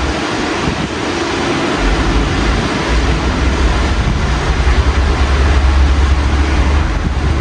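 Steady rain heard through an open window, an even hiss. A low rumble swells from about two seconds in and eases near the end.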